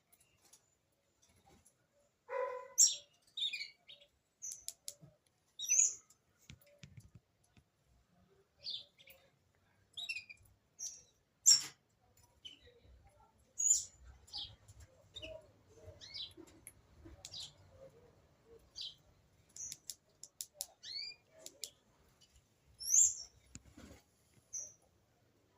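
Female green-winged saltator (trinca-ferro) giving short, high chirps at irregular intervals, a few every couple of seconds, with scattered sharp clicks between them.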